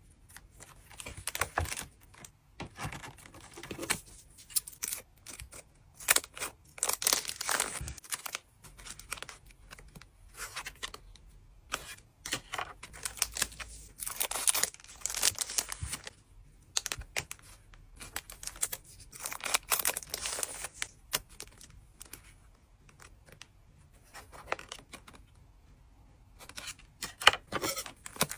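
Trading card pack wrappers being torn open and crinkled, with sharp clicks and rustles as the cards are handled. The sound comes in repeated bursts with short pauses between them.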